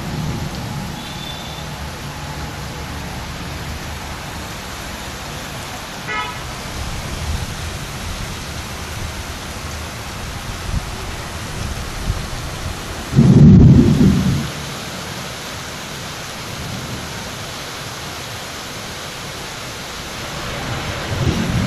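Heavy rain pouring steadily, with a short, loud low rumble about two-thirds of the way through.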